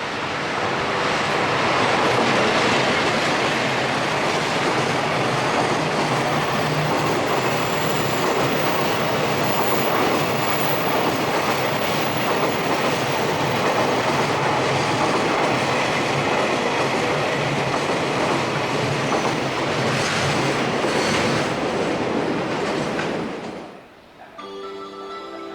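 Long freight train hauled by a JR ED76 electric locomotive running past, a loud steady clatter of wagon wheels on rail. It cuts off sharply near the end, and a chime-like melody begins.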